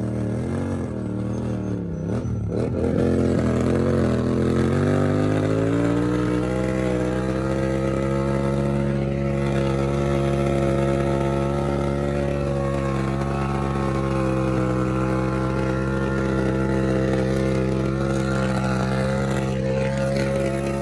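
Motorcycle engine revving: the pitch wavers up and down for the first few seconds, climbs to high revs around five seconds in, and is then held steady at that speed.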